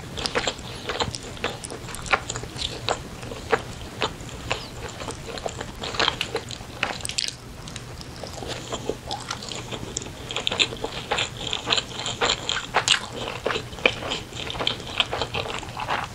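Close-miked chewing of a seaweed-coated rice ball, full of short wet clicks and smacks of the mouth, thicker in the second half.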